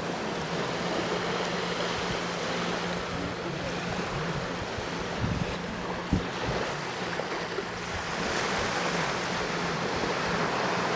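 Sea waves washing onto the shore, a continuous surf that swells near the end, over a steady low hum. Two brief low bumps come a little past the middle.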